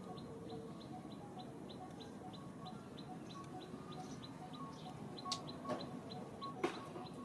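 A bird chirping a short, high note about three times a second. Near the end the chirping stops and a few sharp clicks and short squeaks break in.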